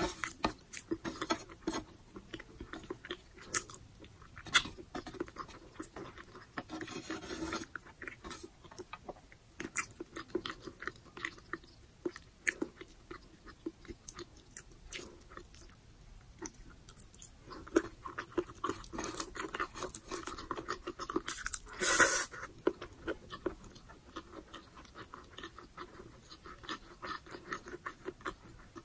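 Close-up chewing of braised pork humba and rice: a steady run of small wet mouth clicks and chews, with one louder brief burst about three-quarters of the way through.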